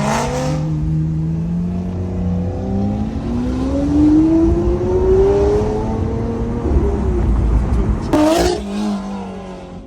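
Lamborghini Aventador SV's V12 through a Capristo exhaust, accelerating with its note rising steadily for several seconds. There are brief breaks with a drop in pitch at the start and again about eight seconds in, like gear changes.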